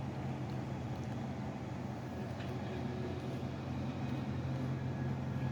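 A steady low hum under a faint hiss, unchanging throughout, with a few faint light ticks.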